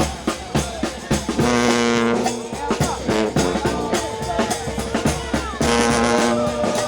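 New Orleans brass band playing: a steady drum beat under trombones and trumpets, with long held horn chords about one and a half seconds in and again near the end.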